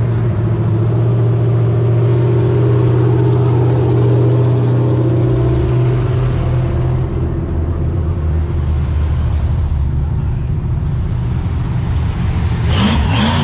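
A car engine running loudly with a steady low note that drops lower about halfway through, then a short louder burst near the end.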